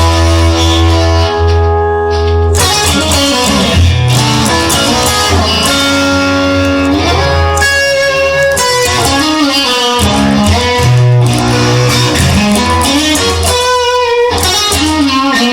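Guitar-led band music with no vocals: an electric guitar plays held notes and bends over a steady bass line.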